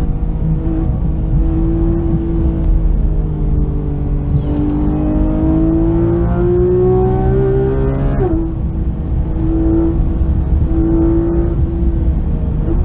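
2016 Porsche 911 GT3 RS's naturally aspirated 4.0-litre flat-six heard from inside the cabin at full pace, pulling hard with its pitch rising for several seconds, then dropping sharply at a quick PDK upshift about eight seconds in and pulling on again, over steady tyre and road rumble.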